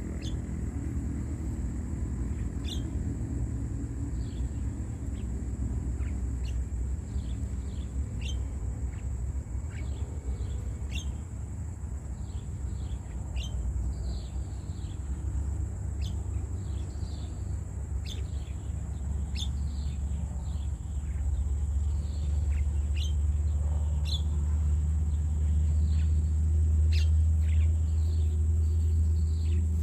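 Birds chirping: many short, downward-sliding chirps repeat throughout. Under them is a steady low rumble that grows louder in the second half, and a thin, steady high whine.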